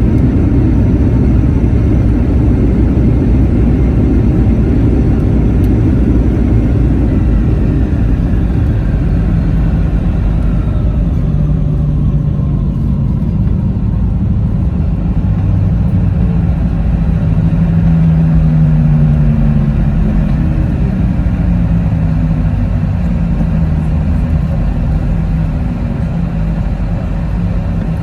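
Cabin noise inside a Boeing 717 with its two Rolls-Royce BR715 turbofans, likely during the rollout after landing. A dense, steady rumble carries a thin whine that falls in pitch in the first half. Lower engine tones then glide down and the rumble eases slightly toward the end as the aircraft slows.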